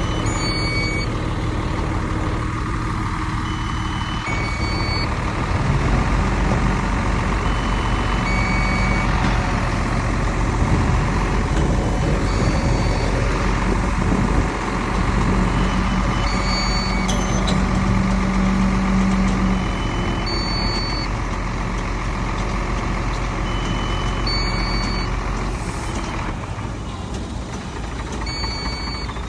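Heavy diesel earthmoving machinery running with a steady low rumble that works harder for a few seconds past the middle. Short high beeps of a warning alarm sound every few seconds.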